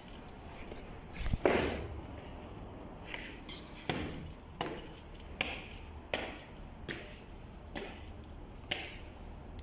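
Repeated hammer strikes on a hard surface, about one every three-quarters of a second, each ringing briefly; the loudest blow lands about a second and a half in.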